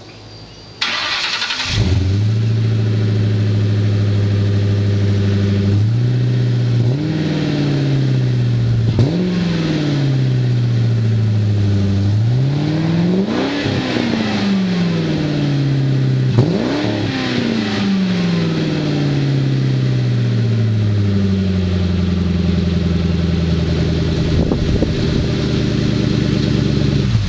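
1998 Ford Mustang's V8 with a Borla exhaust being started: the starter cranks briefly and the engine catches about two seconds in. It then idles, is revved four times with the pitch rising and falling each time, and settles back to a steady idle.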